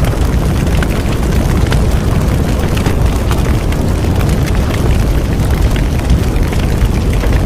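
Bonfire burning: a steady low rush of flames with frequent sharp crackles and pops from the burning wood.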